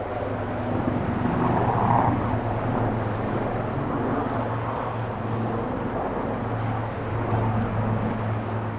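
An aircraft flying over: a steady engine drone with a low hum over a broad rushing noise, swelling slightly about two seconds in.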